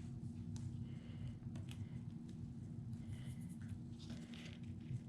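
Faint light clicks and rustles of small paper and wooden craft pieces being handled on a work surface, over a steady low electrical hum.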